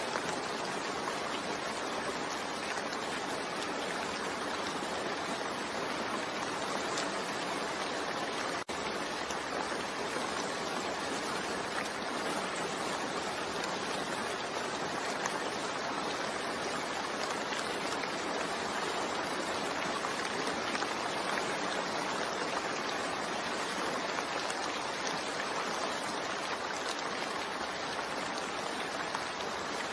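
Steady rain falling, a continuous even hiss with no single drops standing out. There is a momentary dropout about nine seconds in.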